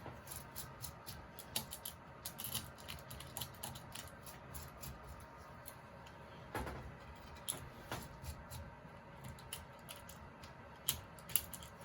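Wood being hand-carved with a blade: faint, irregular short cuts and scrapes, with a few sharper clicks.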